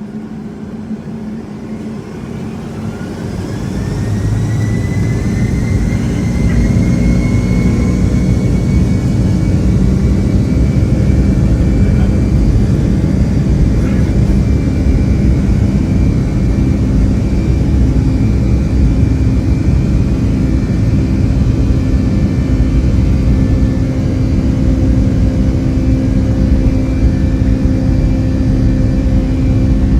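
Boeing 757-200's twin jet engines spooling up to takeoff thrust, heard from inside the cabin: a whine rising in pitch and loudness over the first few seconds, then a steady, loud jet roar with a deep rumble.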